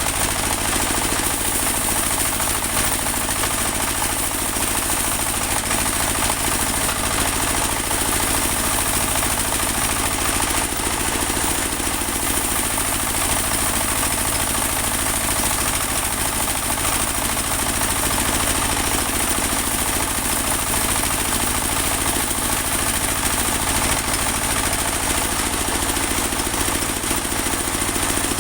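Portable band sawmill running steadily, its engine drone overlaid with a continuous high whine.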